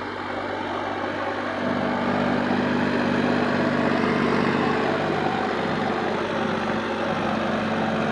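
Sonalika 35 DI tractor engine running at high revs, pulling a cultivator deep in the soil. The steady engine note grows louder over the first two seconds, then holds.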